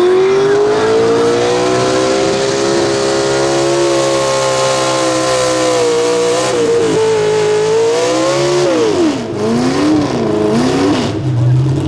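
A competition puller's engine at full throttle under load, its pitch climbing and then holding high with a brief dip partway through. About nine seconds in it is throttled back and the revs fall sharply, then rise and fall a couple of times at lower speed.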